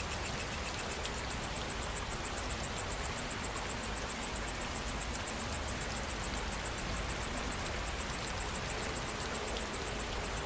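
Steady rain falling, with an insect trilling in fast, even pulses high above it. A second, lower insect trill stops about a second in.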